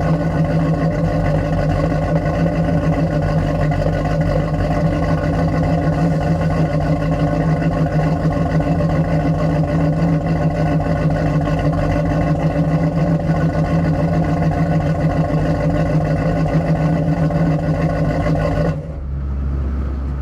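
1975 Pontiac Trans Am's 455 V8 with headers running steadily with a deep, even exhaust pulse. It stops abruptly about a second and a half before the end, leaving a fading low rumble.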